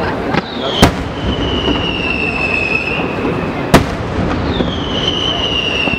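Fireworks display: two sharp bangs about three seconds apart, with long high whistles that slide slowly down in pitch, the last starting about four and a half seconds in, over a steady background rumble.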